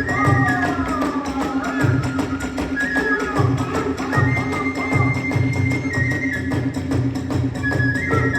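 Kagura hayashi ensemble playing: a bamboo transverse flute holds and slides between high notes over a steady beat on the large drum, with regular sharp strikes from the percussion.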